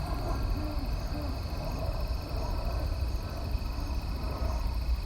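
Three short, low hoots in the first second and a half, which the recordist takes for a possible great horned owl, over the steady trilling of crickets and a low rumble.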